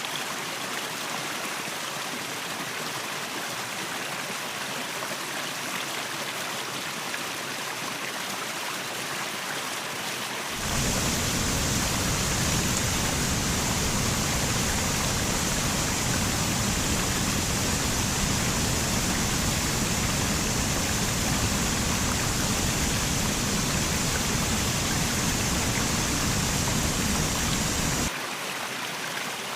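Waterfall water rushing steadily. About ten seconds in the sound abruptly becomes louder and deeper, then drops back to the thinner rush shortly before the end, as at cuts between two recordings.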